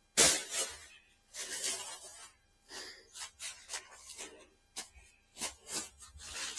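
Branches and brush being handled, heard as irregular short rustles and scrapes with brief gaps between them; no chainsaw is running.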